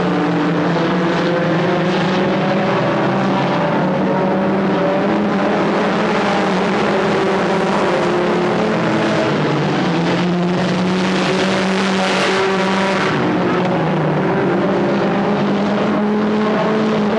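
Several stock car engines running together on the track, loud and continuous, their pitches overlapping and rising and falling as the cars go around.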